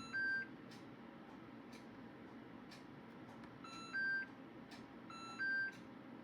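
Aidoo mini washing machine's control panel beeping as a button is pressed to add delay-start time. There are three short two-note beeps, each a lower tone stepping up to a higher one: one at the start and two near the end.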